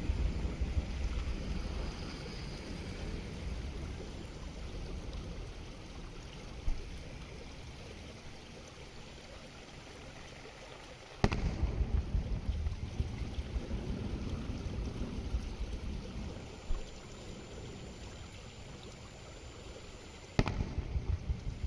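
Two aerial firework shells bursting, each a sharp bang, one near the middle and one near the end, followed by a low rolling rumble of echo. A fainter thump comes a few seconds before each bang. There is a steady low rumble between them.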